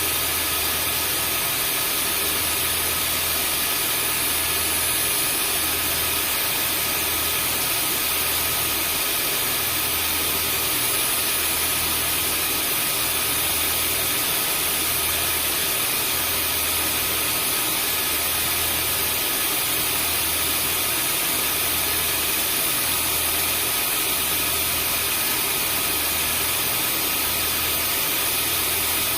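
Vacuum cleaner running steadily: a constant motor whine over rushing airflow hiss, with a low throb that pulses about every second and a half.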